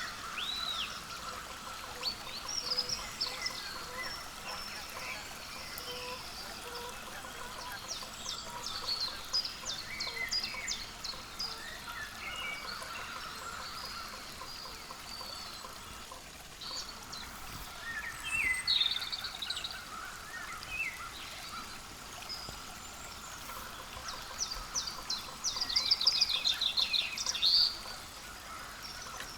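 Small wild birds calling, with rapid runs of high notes at several points, loudest a few seconds before the end, over a steady outdoor background noise.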